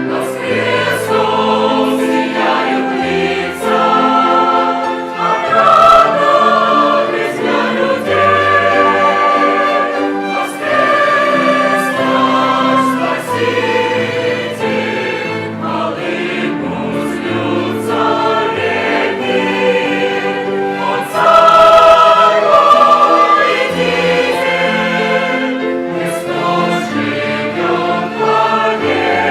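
A church choir singing a hymn with an instrumental ensemble accompanying, over a steadily moving bass line.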